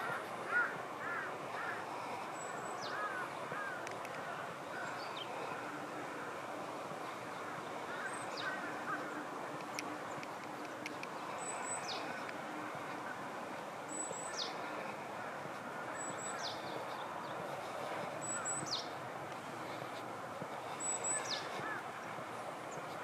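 A bird repeating a short, high whistle that falls steeply in pitch, about every two to three seconds, with a few lower chirping calls near the start, over a steady hiss of background noise.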